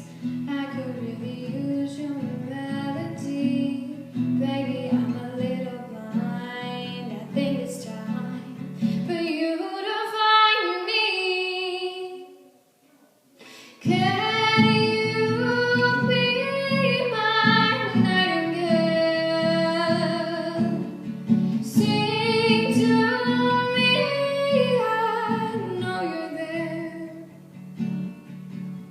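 A woman singing a slow pop ballad to acoustic guitar. About nine seconds in the guitar drops out and the voice carries on alone, then both stop for a moment. Voice and guitar come back in together about fourteen seconds in.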